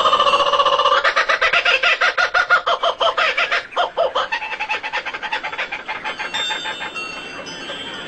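Bird calls: a fast run of loud, rapidly repeated harsh calls that fades after about four seconds into fainter, higher chirping.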